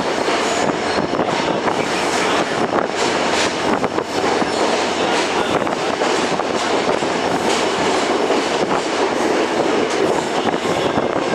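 Express train with ICF coaches running along the track: a steady rumble and rattle of steel wheels on the rails, with faint irregular clicks.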